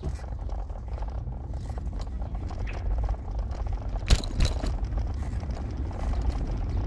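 Car driving: a steady low rumble of engine and road noise, with one sharp knock about four seconds in.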